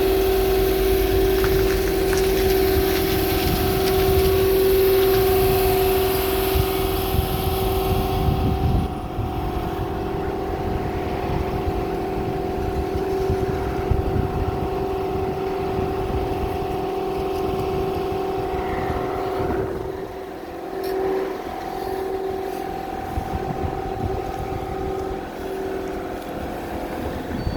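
Washtec SoftCare Pro automatic car wash running, with a steady machine hum over rumbling and splashing. A loud hiss of spraying water stops about nine seconds in, leaving the hum and a lower rumble.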